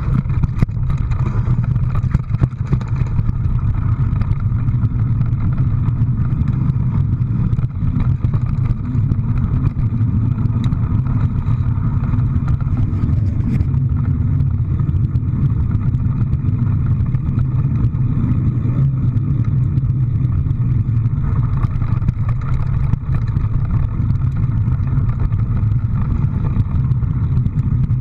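A motor vehicle's steady low engine and road rumble, with a few brief knocks or rattles.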